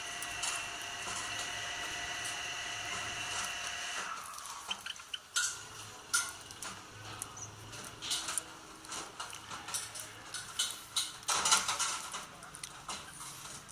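Parrots feeding at their food dishes: irregular clicks, taps and clinks of beaks and seeds against the bowls. A steady high hum sounds underneath for the first four seconds, then stops.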